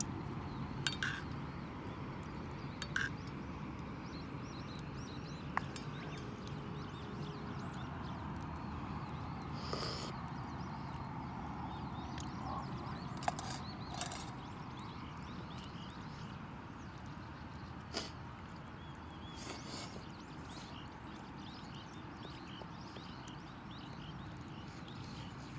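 Wood campfire crackling with a steady low hiss and scattered sharp pops about every couple of seconds. Faint bird chirps are heard high in the background.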